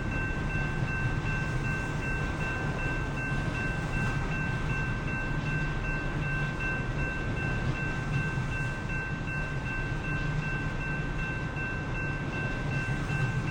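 A train rolling past with a steady low rumble, over which two steady high-pitched ringing tones are held throughout.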